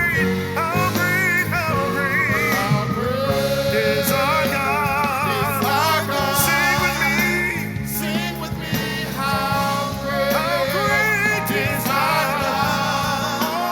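Live gospel worship music: a band playing sustained chords under wavering, melismatic singing.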